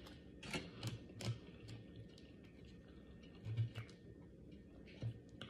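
Close-up eating sounds: chewing with scattered soft clicks and smacks of food and utensils, a few separate ticks with low thuds, loudest about three and a half seconds in.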